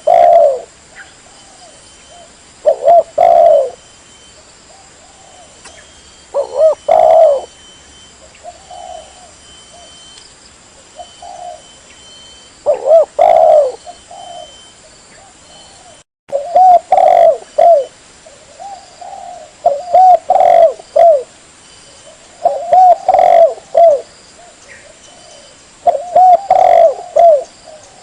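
Spotted dove cooing: loud phrases of a few low, wavering coos every few seconds, with softer single coos between them, played as a bird-trapping lure call.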